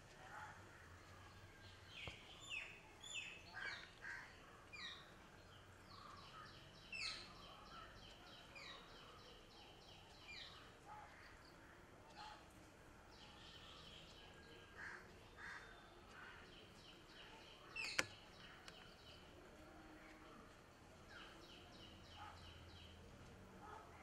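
Faint birdsong: scattered short chirps and calls, with several bouts of fast, evenly paced trilling, and one sharp click about eighteen seconds in.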